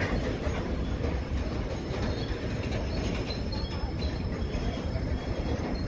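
Container freight train rolling past, a steady rumble of its wagon wheels running on the rails.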